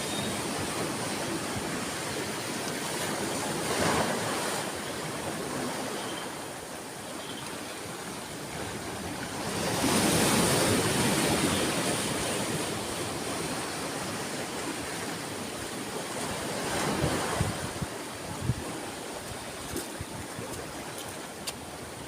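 Sea waves breaking and washing up on a shore, a steady rush that swells with each wave, loudest about ten seconds in.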